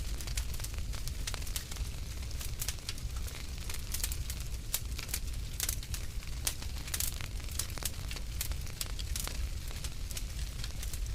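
Fireplace fire crackling, with many sharp, irregular pops and snaps over a steady low rumble.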